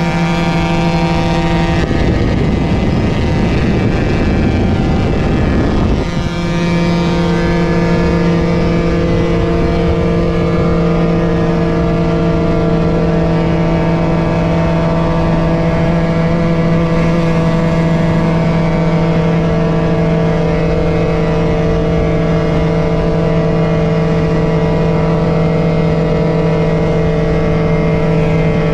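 Motorcycle engine holding steady high revs at about 140 km/h, a constant drone under a rush of wind. A couple of seconds in, the engine tone is swamped by rough rushing noise for about four seconds, then comes back steady.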